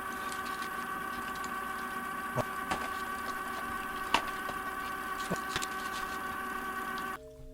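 Scattered small clicks and crackles from chewing and handling chocolate bars, over a steady background hum; the hum cuts off suddenly about seven seconds in.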